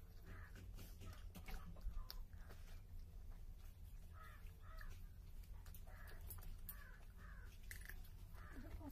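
A bird calling again and again with short, harsh calls, like crows cawing, over a steady low hum, with scattered small clicks from someone eating.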